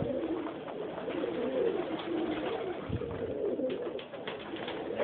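New York flight pigeons cooing in the loft, low wavering coos overlapping one another, with a few short clicks near the end.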